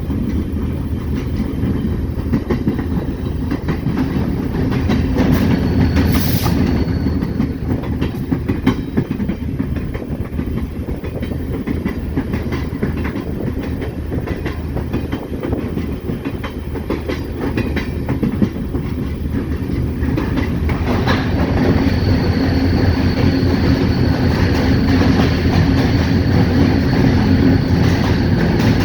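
EMD SD40-2 diesel locomotive rolling down the track, heard from its short nose: a steady heavy rumble of the running locomotive and its wheels on the rails. A faint high steady whine comes in about two-thirds of the way through, and the sound grows a little louder.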